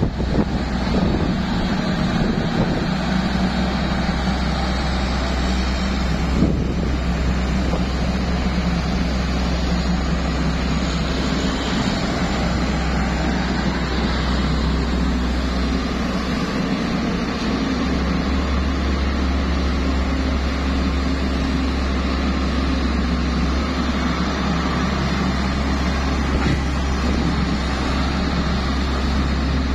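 HENGTE HT215W excavator's diesel engine running steadily with a constant low drone.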